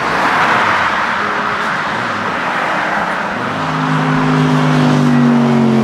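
Straight-piped Jeep Grand Cherokee SRT's HEMI V8 exhaust, with no mufflers, as the vehicle drives. About three and a half seconds in, a steady drone sets in and slowly falls in pitch.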